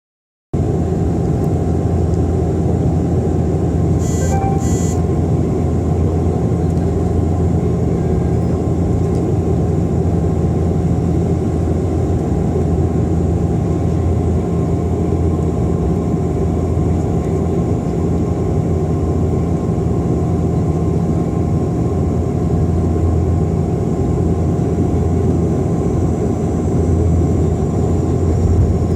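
Steady drone of a Bombardier Dash 8 Q400's twin turboprop engines and propellers, holding an even level throughout. Two brief high tones sound about four seconds in.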